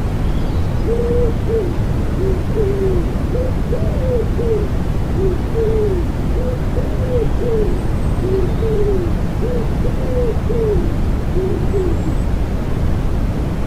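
Common wood pigeon cooing in repeated phrases of low, soft coos, over a steady, loud bed of white noise mixed with rain.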